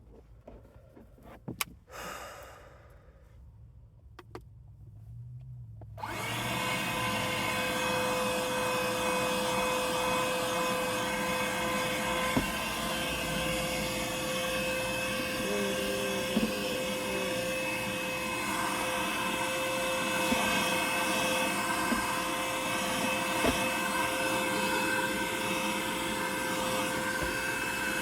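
Small handheld vacuum cleaner switching on about six seconds in, then running steadily with a constant whine, after a few light handling clicks.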